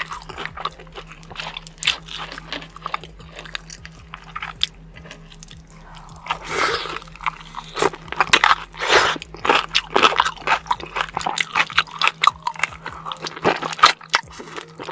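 Close-miked crunching and chewing of food, with crisp bites. The crunches are sparse at first and come thick and fast from about six seconds in.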